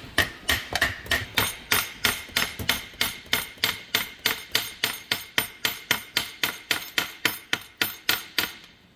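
Hammer tapping lightly and steadily on a Honda Prelude manual transmission case, about three taps a second, to break the case free while its snap ring is held expanded. The taps stop shortly before the end.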